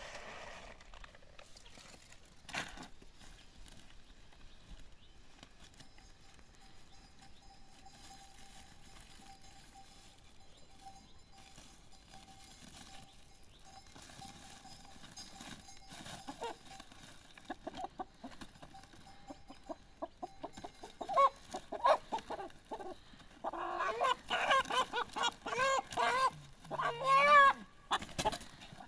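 Chickens clucking, starting softly about halfway through and growing loud and busy over the last several seconds, with a longer call that rises and falls near the end.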